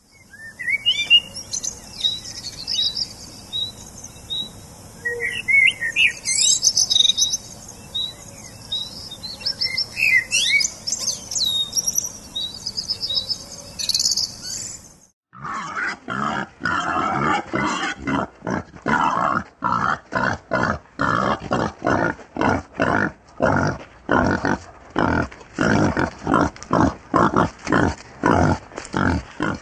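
A northern cardinal singing and chirping with short repeated notes for about the first fifteen seconds. Then wild boars grunting in a fast, even series, two or three grunts a second.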